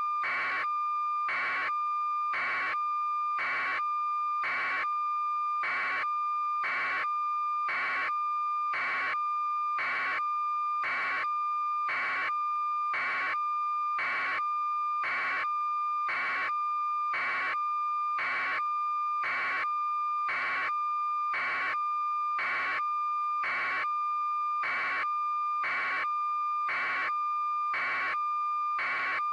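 A steady electronic tone with a short beep repeating evenly about once a second, unchanging throughout.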